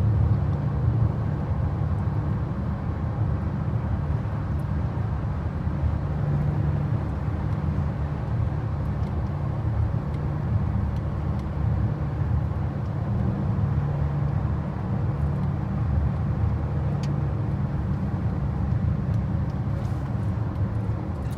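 A 2021 BMW X6 being driven at a steady pace: a low, even rumble of its turbocharged inline-six engine mixed with tyre and road noise.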